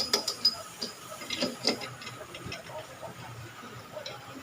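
Metal tools and engine parts clinking and tapping during hand assembly: a quick run of sharp clicks in the first two seconds, then a few fainter taps.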